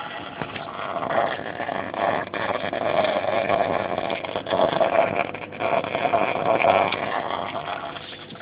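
Aquarium overflow drain into a sump gurgling and rushing, water and air going down the pipe together in uneven surges. This is the overflow noise the homemade fix is meant to cure.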